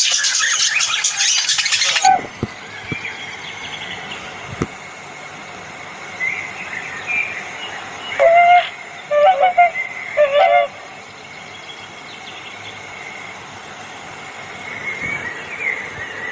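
Swans calling: a few bursts of short, nasal honks, about eight to ten seconds in and again near the end. Before them, a loud hissing noise cuts off abruptly about two seconds in.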